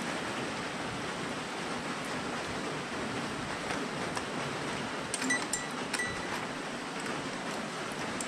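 Steady rain falling, with a few light clicks about five to six seconds in as the saw chain is worked onto the chainsaw's bar.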